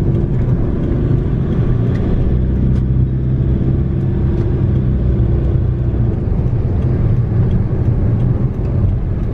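Car running at a steady pace, a loud even low drone of engine and road noise.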